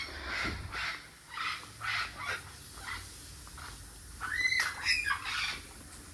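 St Vincent Amazon parrots squawking: a run of short calls over the first three seconds, then a louder, longer pair of calls about four and a half seconds in.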